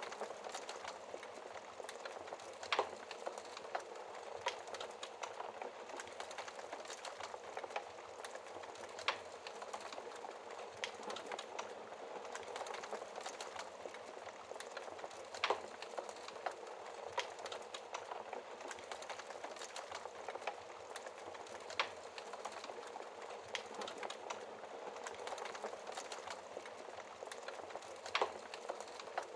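Wood fire in a fireplace crackling: a steady soft hiss of flames with many small irregular crackles and a louder pop every several seconds.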